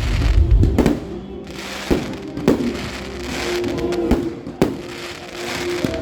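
Fireworks going off in separate sharp bangs, about six over a few seconds, with music playing underneath.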